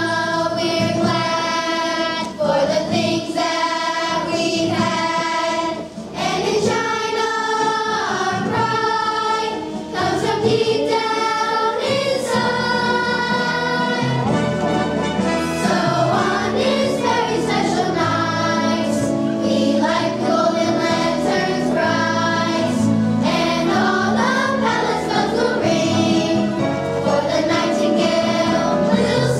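Children's choir singing a song, with long held notes.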